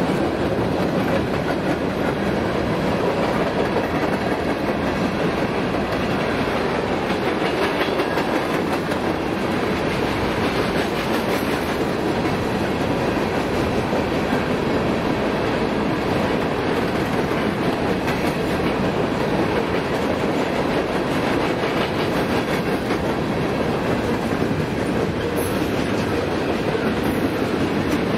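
Freight train cars rolling past close by, their steel wheels on the rails making a steady, continuous noise with no horn or engine note standing out.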